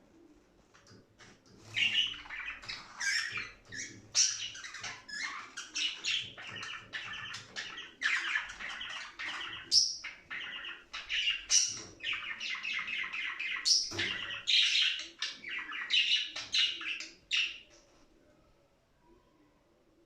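Budgerigars chattering and warbling in quick chirps and squawks, starting about two seconds in and breaking off shortly before the end.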